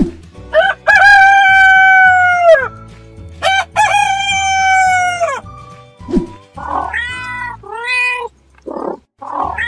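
A rooster crowing twice, each a long held call that drops in pitch at the end, then a few shorter cat meows, over a background music track with a steady beat.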